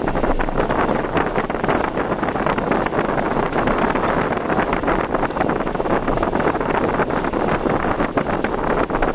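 Steady rushing noise of a car driving through typhoon wind and rain, with many small ticking hits throughout.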